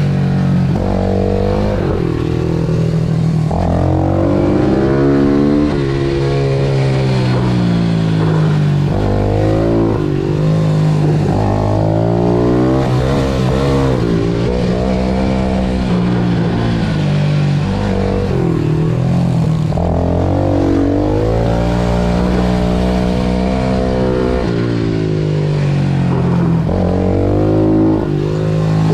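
Pit bike engine racing on a tight track: it revs up hard, drops back, and revs up again every second or two.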